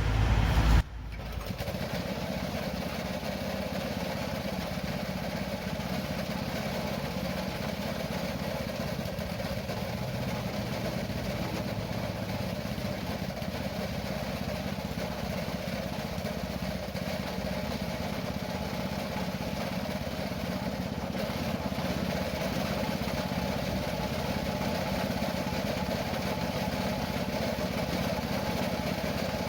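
An engine running steadily, an even drone with no change in speed. A louder sound cuts off abruptly about a second in.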